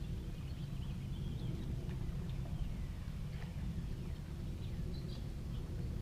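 Steady low outdoor rumble, with faint short bird chirps scattered through.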